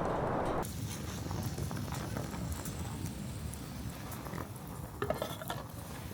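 A steady rushing noise cuts off abruptly under a second in, leaving a low rumble with scattered small clicks and knocks and a brief flurry of clicking about five seconds in.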